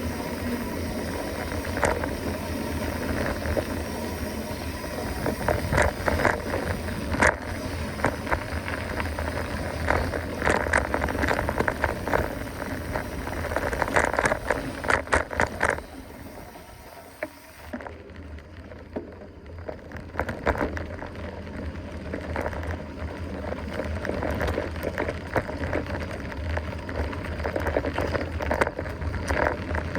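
Mountain bike being ridden along a trail: tyre and wind noise with frequent rattling clicks and knocks from the bike, quieter for a couple of seconds a little past the middle.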